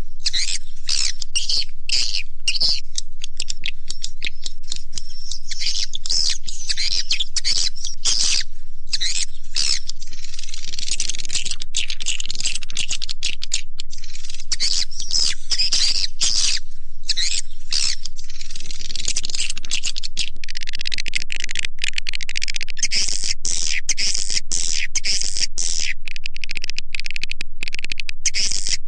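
Swiftlet call (lure) recording: a dense, unbroken chatter of high-pitched swiftlet chirps and twitters, with a steady low hum underneath. It is the kind of sound swiftlet farmers play to draw the birds into a nesting house.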